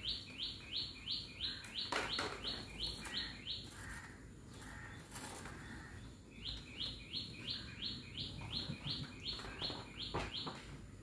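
A bird chirping: short, high notes, each dropping slightly in pitch, repeated about three times a second in two runs with a pause of a few seconds between them. A few faint knocks sound under the chirps.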